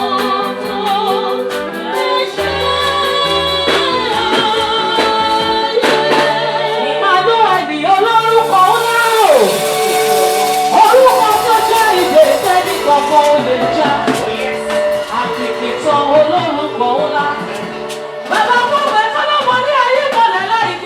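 Live gospel praise music: a woman's sung lead over a band with keyboard and percussion, the melody sliding between held notes.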